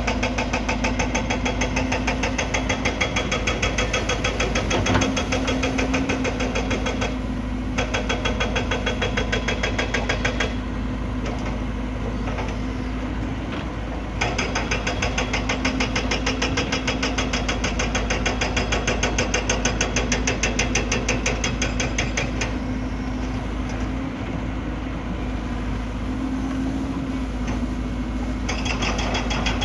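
Excavator's diesel engine running steadily under a constant low hum, with a fast, even rattling pulse. The pulse drops out for a few stretches, around 7 s, from about 10 to 14 s, and from about 22 to 28 s, then comes back.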